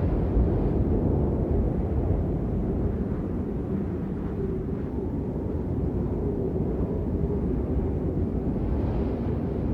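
Steady rain noise with its weight in the low end, heard as an even deep hiss without distinct drops or patters.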